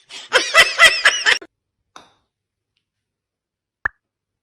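A burst of high-pitched laughter, rapid and breathy, for about a second and a half, then quiet broken by a single short click near the end.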